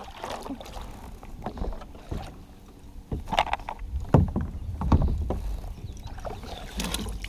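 Irregular knocks, clatters and rustling of gear being handled aboard a fishing kayak, with a low rumble underneath.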